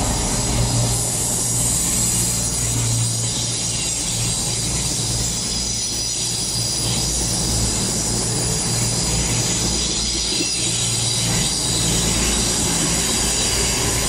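Train running with a steady low hum and a high-pitched wheel squeal held throughout.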